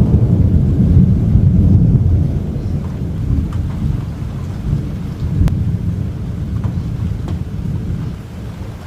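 Thunder rumbling after a close lightning strike: loud for the first couple of seconds, then rolling on more quietly with a brief swell about halfway through, and dying down near the end. A few sharp ticks sound over the rumble.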